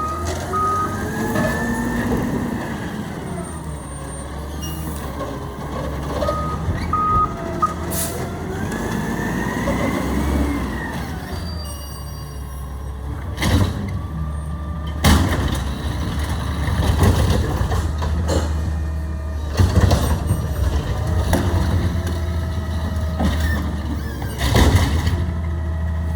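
Garbage truck's diesel engine running and revving up and down, with a reversing alarm beeping briefly near the start and again about seven seconds in. Several sharp, sudden loud noises in the second half.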